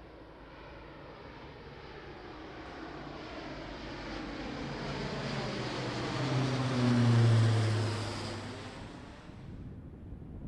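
Airbus A400M's four turboprop engines flying past, growing steadily louder to a peak about seven seconds in, then fading quickly. A low propeller drone drops slightly in pitch as the aircraft passes.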